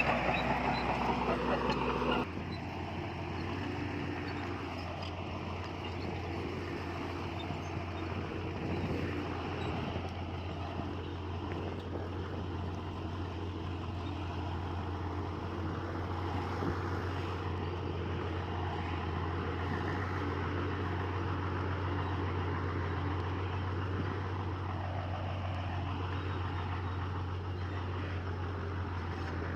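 Heavy earthmoving machinery's diesel engine running steadily with a low drone. It drops abruptly in loudness about two seconds in.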